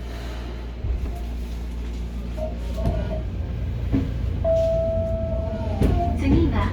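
Running noise inside a Hokuriku Railroad 03 series commuter train: a low rumble that steps up about a second in and keeps building as the train gets under way, with scattered knocks and a brief steady whine midway.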